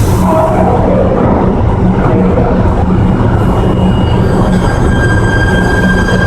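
PATH PA5 subway train running through the station: a loud, continuous rail rumble with a steady low hum, and thin, even electric motor whine tones coming in during the second half.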